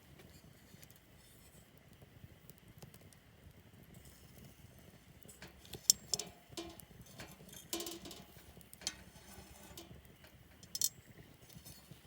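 A handful of sharp clinks and knocks of small hard objects being handled, some with a brief ringing tone, loudest about six seconds in and once more near the end, over a faint low background.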